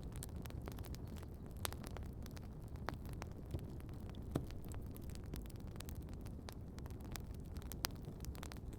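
Wood campfire crackling, with irregular sharp pops and snaps over a low steady rumble; the sharpest pop comes about halfway through.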